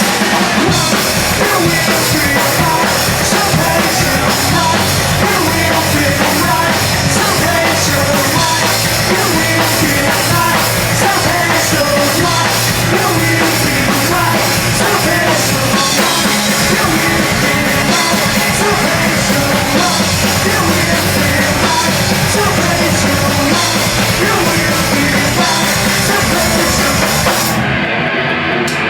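Live hardcore punk band playing loud: distorted electric guitars, bass and a pounding drum kit with constant cymbals. The cymbals and high end cut out for about a second near the end.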